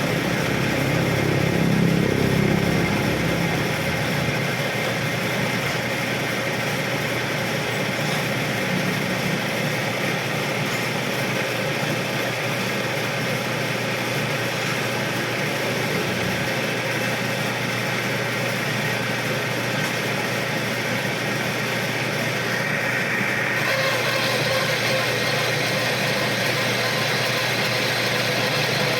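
Metal lathe running steadily while cutting the steel sleeve fitted into an alloy hub. The sound turns brighter and a little louder about three quarters of the way in.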